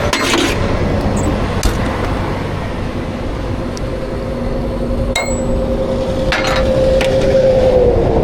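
Steady rumble of highway traffic with scattered metallic clinks and clicks of tie-down strap hardware as the motorcycle is strapped down. A passing vehicle's whine drops in pitch near the end.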